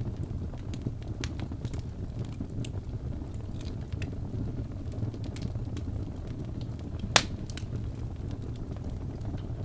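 Wood fire burning in a fireplace: a steady low rumble of flames with scattered small crackles and one loud, sharp pop about seven seconds in.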